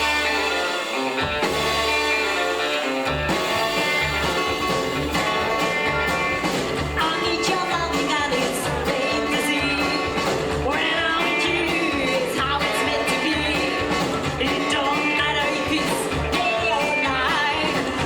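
Live rockabilly band playing a song: guitar and a steady, pulsing bass beat, with a singer's voice coming in about seven seconds in.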